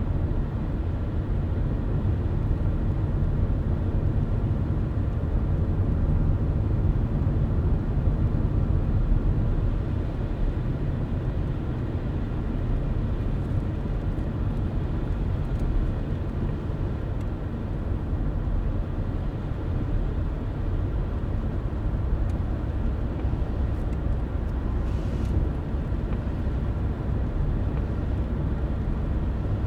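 Car driving at a steady pace: an even, low rumble of engine and tyre noise on the road, with a few faint ticks.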